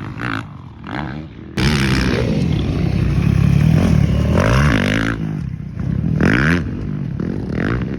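Motocross dirt bike engines revving up and down on the track, more than one at times, their pitch rising and falling as they ride. The sound jumps abruptly louder about a second and a half in.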